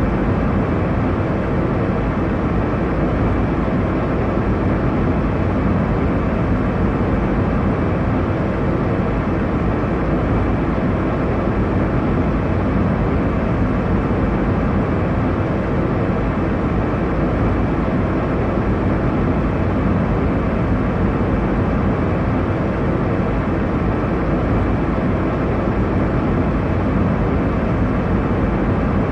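Airliner cabin noise in cruise: a steady, low rumbling hiss of engines and airflow with no changes.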